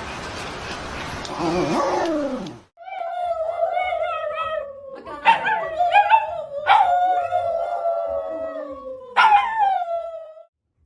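A dog howling in long, wavering howls that begin about three seconds in, with fresh howls starting high and sliding down in pitch about three times. Before the howls there is a stretch of hissing noise.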